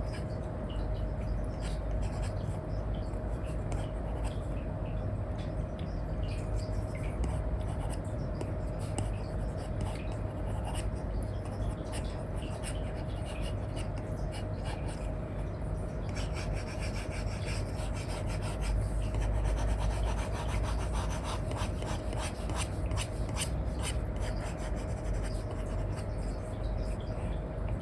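Stylus nib scratching and rubbing across a paper-like matte screen film in quick, repeated colouring strokes. The strokes come faster and denser a little past halfway.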